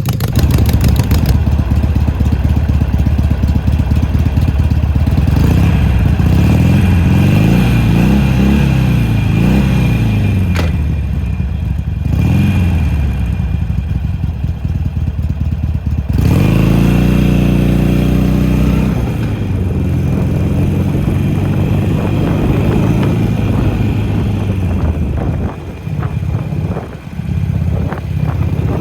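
2009 Harley-Davidson Sportster XL883L's air-cooled V-twin running through newly fitted replacement mufflers, revved several times so its pitch rises and falls, then settling lower near the end.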